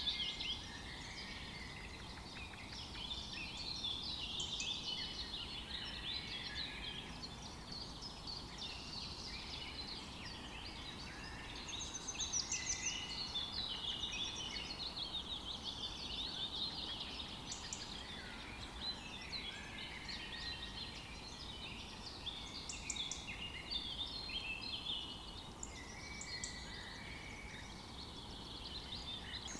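Several birds singing at once, a continuous mix of overlapping high chirps and short trills over a faint outdoor hiss.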